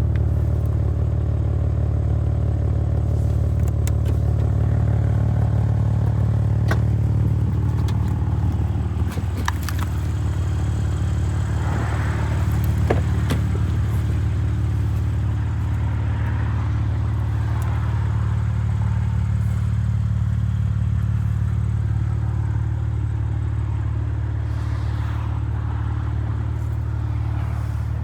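BMW M3 Competition's 3.0-litre twin-turbo inline-six idling steadily, with a few light clicks and knocks over the idle.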